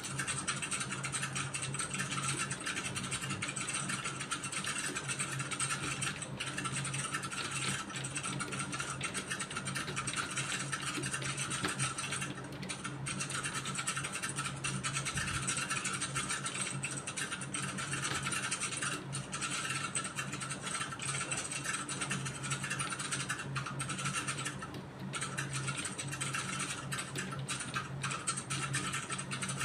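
Computer keyboard typed on without a break, a steady stream of key clicks with a few short pauses.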